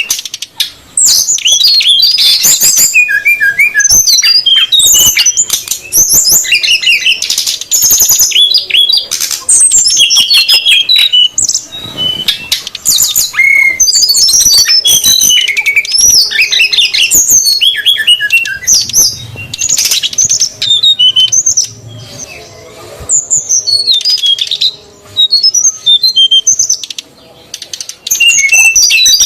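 Brown-chested jungle flycatchers, male and female, calling excitedly in a lure recording: a busy, high-pitched stream of quick chirps, sweeping notes and sharp clicks, broken only by a few short pauses.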